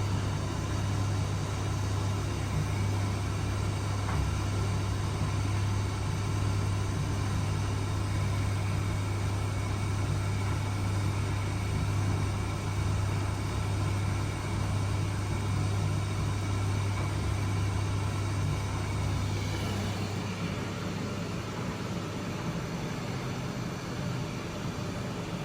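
Miele W1 washing machine running with its drum motor at a steady speed: a strong low hum with many steady tones above it. About twenty seconds in, the low hum drops away and the sound gets slightly quieter.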